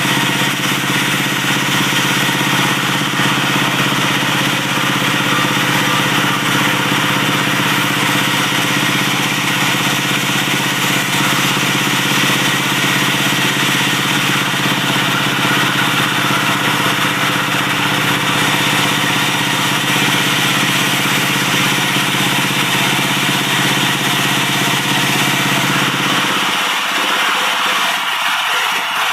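Diesel-engine-driven wood-sawing machine running steadily. About 26 seconds in its low engine hum drops away while a higher noise carries on.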